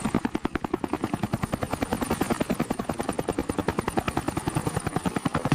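Helicopter rotor beating steadily, a fast, even chop of about ten blade beats a second.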